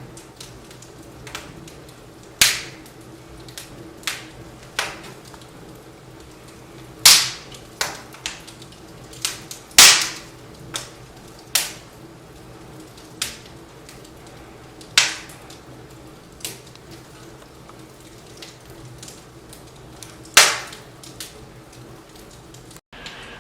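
Firewood crackling in a fireplace: sharp pops and cracks at irregular intervals, some much louder than others, over a faint steady hum.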